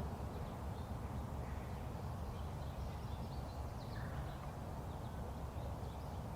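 Outdoor ambience: a steady low rumble, with faint, scattered bird chirps.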